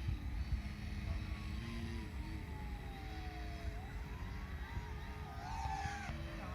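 Radio-controlled model airplane's engine running in flight, its pitch slowly falling for a few seconds and then rising again as the plane passes and turns, over a steady low rumble.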